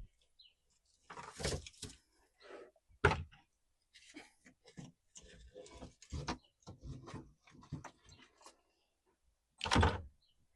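Things being rummaged through and shifted around inside an old boat: irregular knocks, clunks and rustling, with a sharp knock about three seconds in and a louder clatter near the end.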